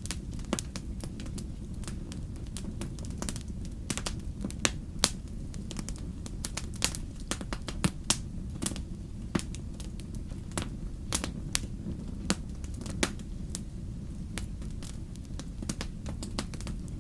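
Wood fire burning in a fireplace: a steady low rumble with sharp, irregular crackles and pops from the burning logs.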